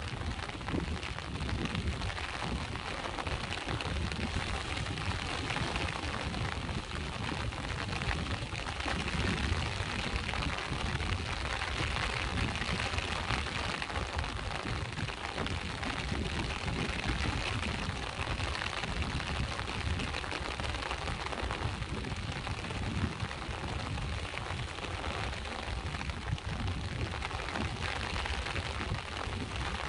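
Steady rain falling by the sea with waves washing in: a constant hiss and patter over a low rumble.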